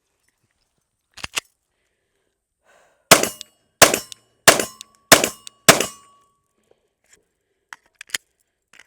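Glock 26 9mm pistol firing five shots about two-thirds of a second apart, with a couple of light metallic clicks of handling shortly before the first shot and a few faint clicks near the end.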